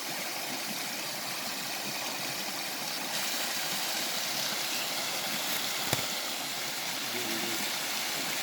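Steady rush of water from a waterfall, with a single sharp click about six seconds in.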